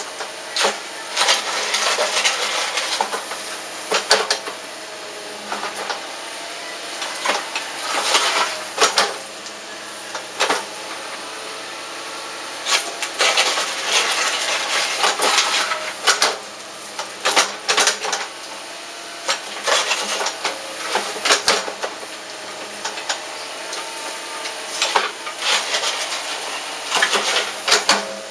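Irregular clacks, knocks and scraping of stones being handled and set in place while a stone fire pit is built.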